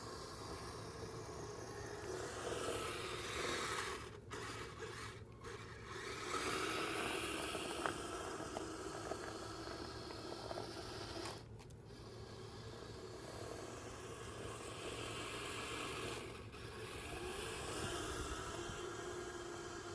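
Kyosho Blizzard radio-controlled tracked snow vehicle driving through slushy snow, a steady scraping sound from its tracks that drops out briefly a few times.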